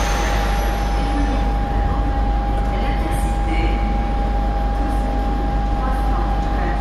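Train station soundscape as an electric locomotive hauling passenger coaches approaches: a steady rumble with a constant high-pitched whine running through it.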